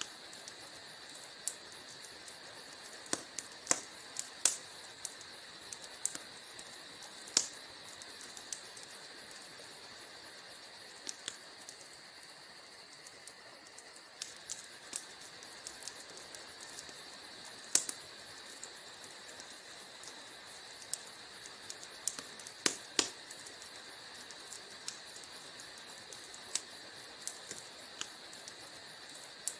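Wood fire crackling in a fireplace: irregular sharp pops and snaps over a steady hiss, with a few much louder pops scattered among them.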